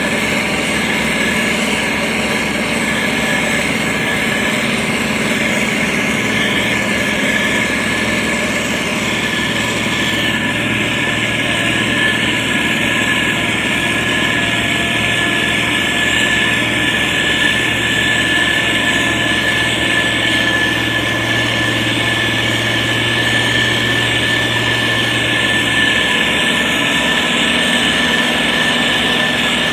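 Diesel engine of a SANY STG190C-8S motor grader running steadily as it works, with a steady high whine over the engine. A deeper hum joins about a third of the way in and fades near the end.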